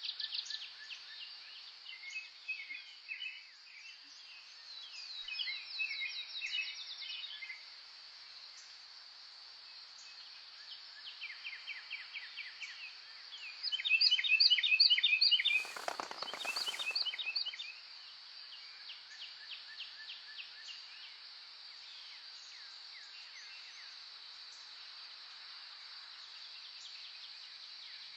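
Several songbirds singing in short rapid trills and chirps over a steady high-pitched drone. The singing is busiest and loudest about halfway through, where two brief noisy swooshes cut across it.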